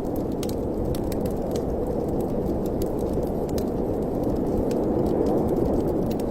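Wood fire crackling in a fireplace, with scattered sharp pops and clicks over a steady low rushing of wind.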